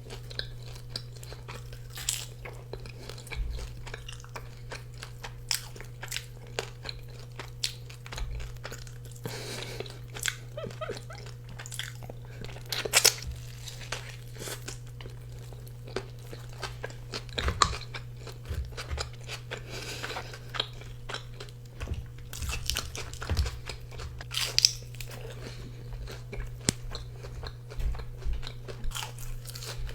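Close-miked mukbang eating: a person biting and chewing crunchy food, with many short irregular crunches and mouth sounds over a steady low hum.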